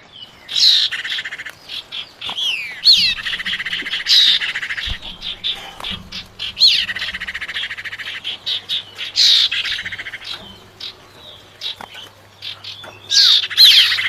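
Female cipau (iora) call used as a lure to draw in a male: a repeated phrase of a sharp, falling whistle running into a buzzy rattling trill about a second long, coming about every two and a half seconds, with short chirps in between.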